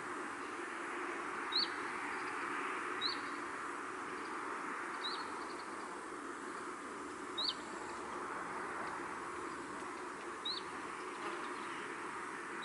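A small songbird giving short, single high chirps, about five of them spaced every couple of seconds, over a steady hiss of outdoor countryside ambience.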